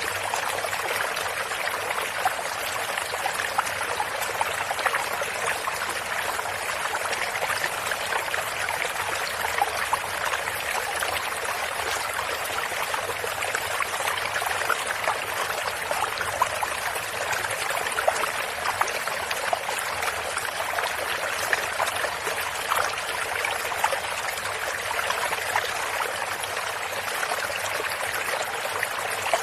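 A small stream of running water flowing and trickling steadily, with a fine patter of small splashes throughout.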